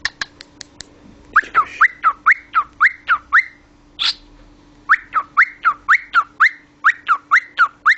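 Cockatiel whistling a rapid run of short, rising whistle notes, about four a second, in two bursts with a short pause between them; a few soft clicks come right at the start.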